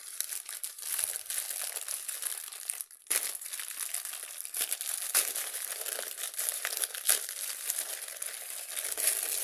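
Plastic packaging crinkling and rustling as it is handled and opened, a busy run of small crackles that breaks off briefly about three seconds in.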